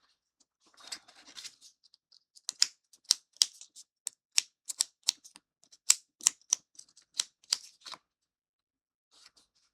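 A small kit piece being sanded by hand with a small piece of sandpaper to take off moulding flash: a brief scratchy rub, then quick, sharp back-and-forth strokes, about three a second for some five seconds.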